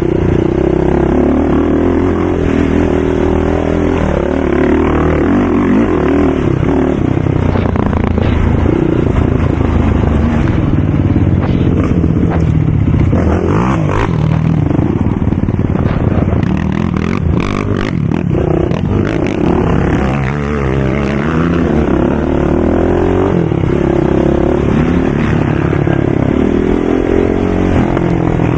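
Racing ATV engines running and revving, their pitch rising and falling over and over as the throttle is worked.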